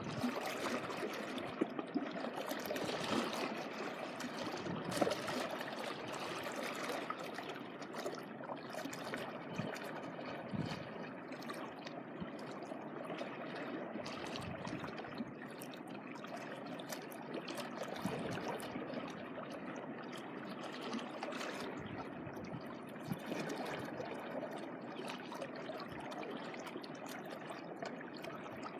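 Small waves lapping on the shore: a steady watery wash with frequent small splashes and trickles.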